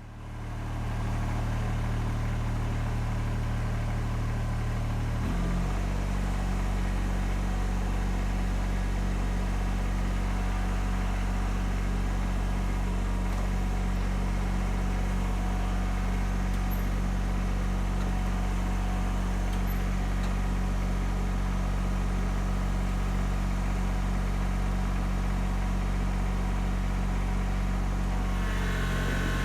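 Tractor engine running steadily, its note shifting lower about five seconds in and then holding at a steady idle-like hum.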